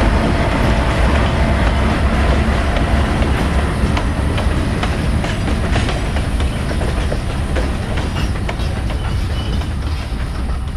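CN freight train passing close by: diesel locomotives with a deep steady engine sound, then freight cars rolling past, their wheels clicking sharply over the rail joints from about four seconds in. The sound eases slightly near the end.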